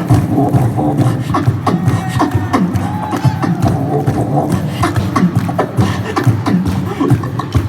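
Beatboxing into a microphone over a PA: a fast, steady run of mouth-made kick and snare hits with short vocal sounds.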